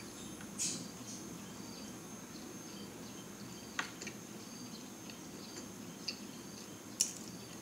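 Faint mouth sounds of someone chewing soft bread, with a few small clicks and smacks, over a steady room hum and a thin high whine.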